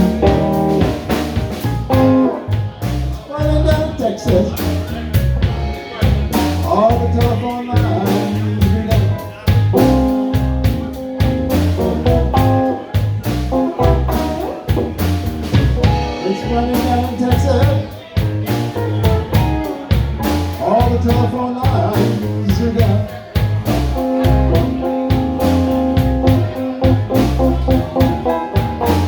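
A band playing a slow blues with a drum kit, running steadily throughout.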